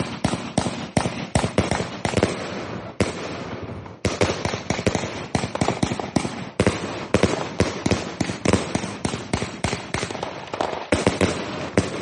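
239-shot compound fireworks cake ('Die Hand Gottes' by Nordlicht) firing in quick succession: a dense string of loud bangs, about three to four a second, with a constant crackling hiss between them.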